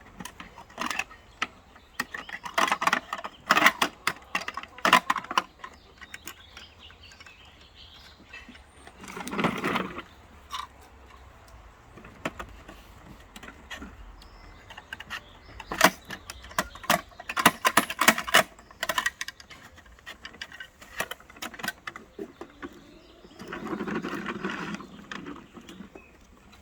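Garbage truck collecting yard waste: bursts of rapid clattering clicks and knocks, with two longer rushing sounds about fourteen seconds apart, over a faint low hum.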